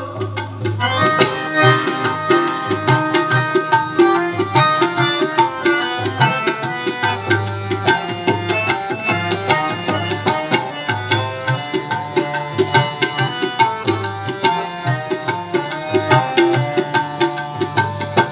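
Instrumental interlude of devotional kirtan music: tabla plays a steady rhythm under a harmonium melody.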